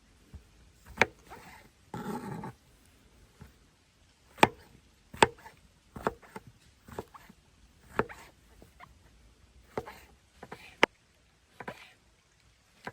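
About a dozen sharp knocks and clicks at irregular intervals, with one short noisy burst about two seconds in.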